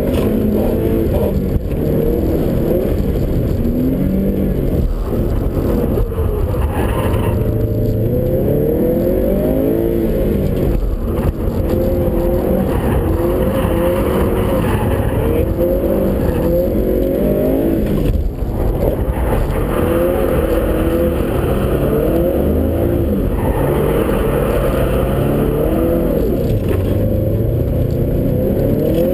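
Subaru Impreza STI (GC8) turbocharged flat-four engine heard from inside the cabin, revving up and dropping back over and over as the car is driven hard, its pitch rising and falling every second or two.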